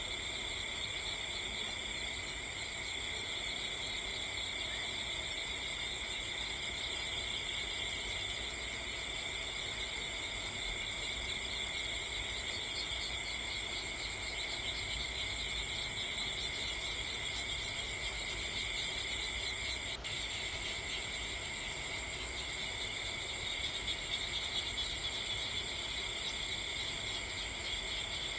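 A steady chorus of insects chirring in several high, unbroken bands, over a low rumble.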